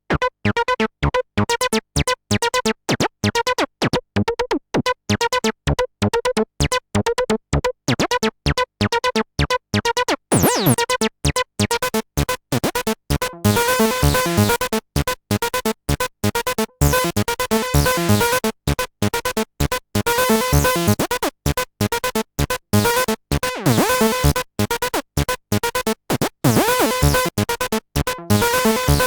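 Behringer TD-3-MO acid bass synthesizer playing a fast repeating 8-step sequence of short staccato notes. About a third of the way in, the tone opens up much brighter, with falling pitch sweeps, as modulation sweeps the filter.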